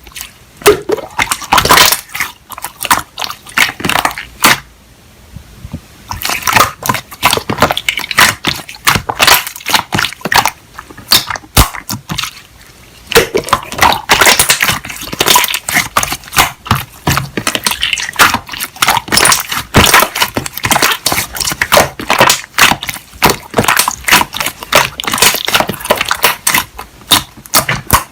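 Slime being worked by hand, giving rapid wet crackling clicks and pops, with a brief pause about five seconds in.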